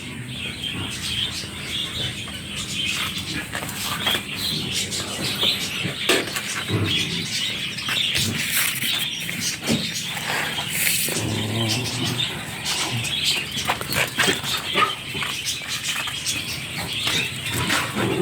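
Many small birds chirping continuously, a busy scatter of short high chirps.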